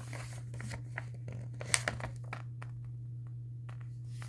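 Paper rustling and a few sharp clicks from a picture book being handled and its page turned, over a steady low hum.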